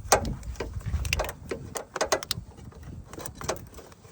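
Irregular clicks and knocks of hand work on a car's power steering hose and its fittings as the hose is hooked up, some coming in quick runs of two or three.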